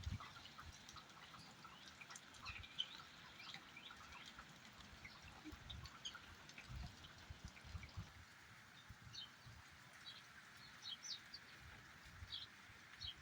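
Faint outdoor ambience: many short, scattered high chirps and ticks over a soft, steady hiss, with a few low thuds.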